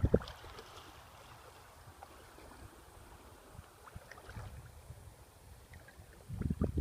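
Wind buffeting the microphone, dropping to a faint hiss with a few soft ticks, then gusting against the microphone again near the end.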